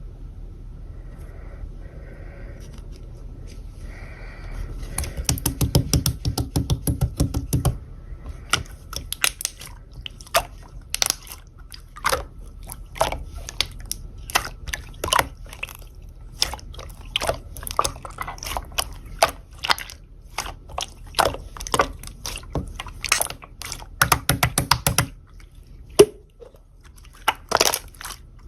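Clear slime being squished and pressed by hand, making wet clicking and popping sounds. The pops come in quick runs about five seconds in and again near the end.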